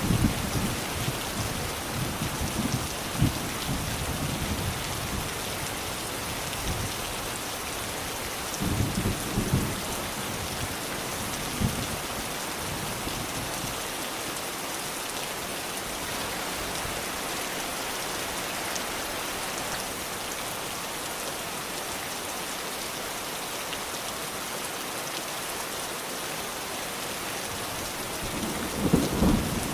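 Steady rain falling, with low rumbles of thunder in the first few seconds, again around nine seconds in, and building near the end.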